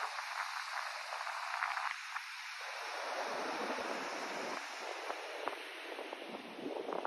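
Steady rushing hiss of a white-noise sleep track, sprinkled with small crackles; from about three seconds in it spreads down into a deeper rush.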